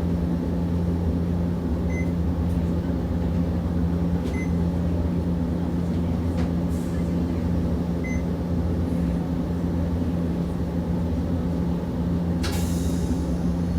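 Interior of a Hiroshima Electric Railway 650-type tram standing at a stop, its equipment giving a steady hum with a low tone. A few faint short beeps sound, and about 12.5 seconds in a sudden air hiss starts and lingers.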